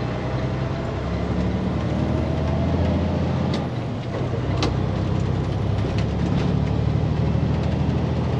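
Diesel engine of a semi truck running under way, heard from inside the cab, with its note changing and the level dipping briefly about four seconds in. A few sharp clicks are heard.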